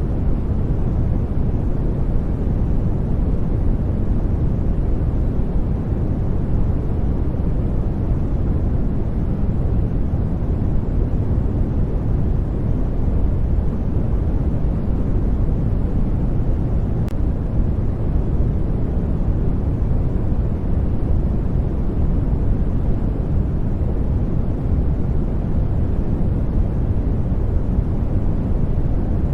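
Steady sleep-aid noise track: an even, unchanging hiss, heaviest in the low end so it sounds deep and rumbling rather than bright.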